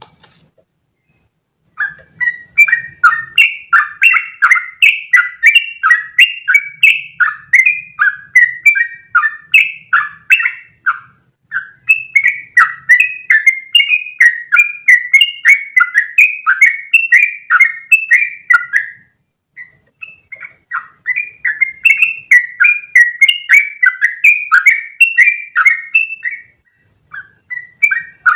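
Yellow-vented bulbul (trucukan) singing a long, rapid run of chattering notes, several a second, the kind of long 'one-breath' song played to train caged birds. It starts about two seconds in, breaks off briefly twice and starts up again.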